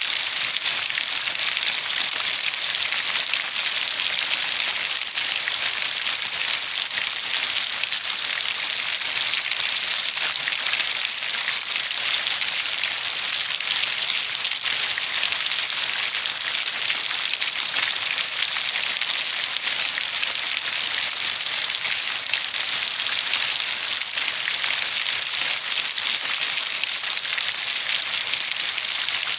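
Steady rainfall, a dense, even hiss of raindrops that holds at one level throughout, with no thunder.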